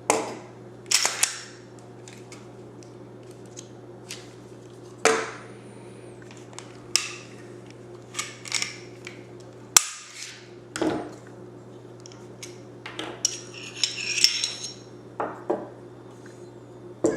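Glock 17 pistol being field-stripped by hand: irregular metallic clicks and short scrapes of the slide and parts being worked and set down, the sharpest click about ten seconds in.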